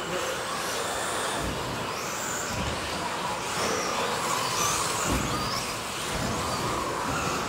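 Electric RC race cars running around the track, their brushless motors whining up and down in pitch as they accelerate and brake, with a few low thumps.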